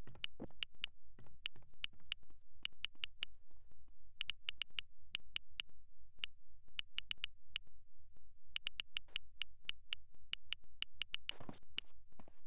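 A series of sharp clicks in irregular clusters, over a steady low hum, with a brief rustle near the end.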